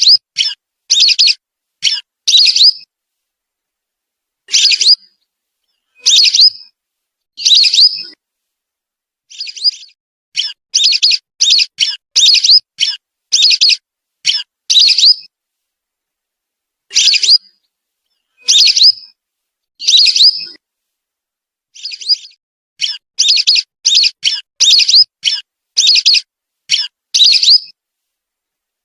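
Whistling duck (belibis) calls used as a bird lure: short, high whistled calls, some in quick runs of several and some single, with pauses of a second or two between them and dead silence in the gaps.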